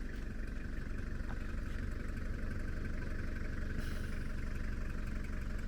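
A vehicle's engine running steadily at low speed, a low, even hum.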